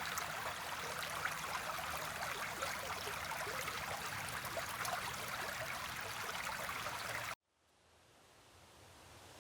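Steady babbling of running water, like a stream along a riverbank, that cuts off abruptly about seven seconds in; after the cut a much fainter, quiet rustling ambience slowly fades in.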